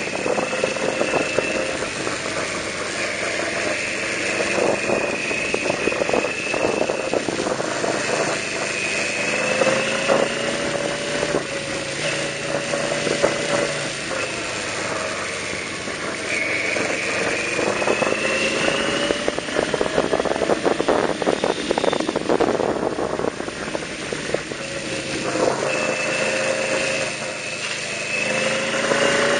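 Yamaha V-Max 1200's V4 engine running under way, its pitch rising and falling several times with the throttle, over a steady rush of wind.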